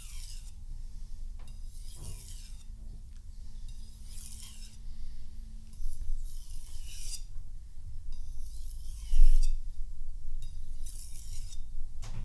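Knife blade drawn lightly across a 3000-grit whetstone in slow, separate scraping strokes, about one every two seconds. These are stropping strokes to remove the burr from the edge.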